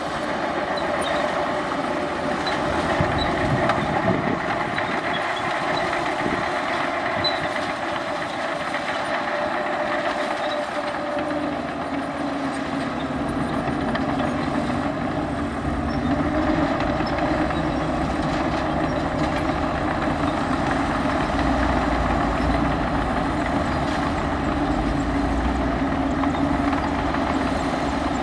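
Heavy diesel earthmoving machinery running steadily, its engine note dropping in pitch about eleven seconds in, with a deeper rumble building later.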